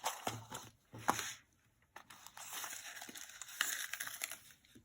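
Packaging crinkling and rustling as a boxed Avon jewelry set is opened and unwrapped by hand, in a few bursts with a short pause in the middle.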